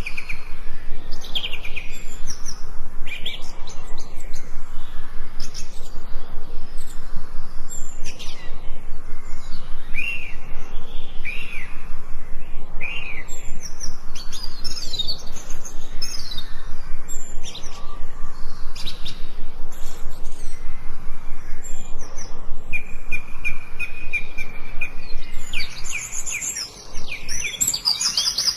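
Several forest birds chirping and calling over one another with short sweeping notes. A steady trill comes in past the middle, and a fast high trill starts near the end.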